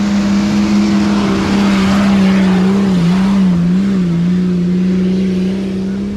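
Off-road 4x4's engine held at high revs under load, its pitch steady and then wavering slightly around the middle. A rushing noise swells through the first half and fades.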